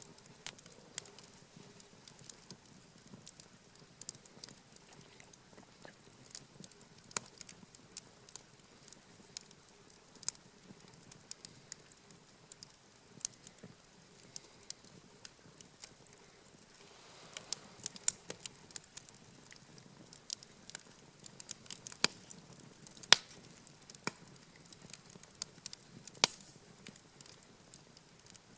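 Wood campfire crackling, with irregular sharp pops and snaps, busier in the second half and one loudest pop a little after two-thirds of the way through.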